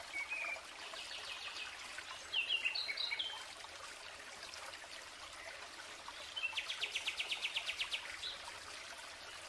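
Birds chirping in short phrases about two seconds in, then a fast, even rattling trill of about nine pulses a second near the end, over a faint steady outdoor hiss.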